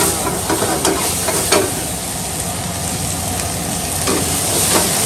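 Boneless chicken frying and sizzling in a pan while it is stirred, with a few sharp metal knocks scattered through, over a steady low hum.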